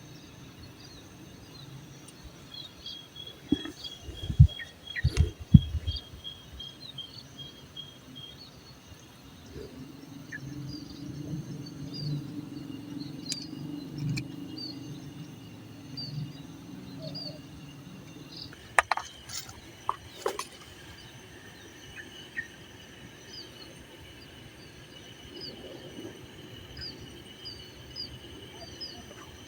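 Outdoor nature ambience: birds and insects chirping in short repeated calls, with a steady insect trill over it. A few loud sharp knocks come about four to six seconds in and a couple more near the middle.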